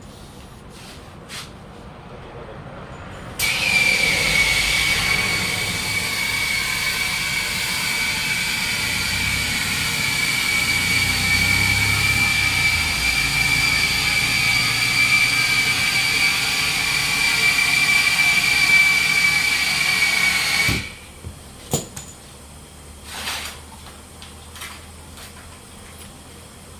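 Compressed air running for about seventeen seconds: a loud hiss with a steady high whistle that starts and cuts off abruptly. A few light knocks come before and after it.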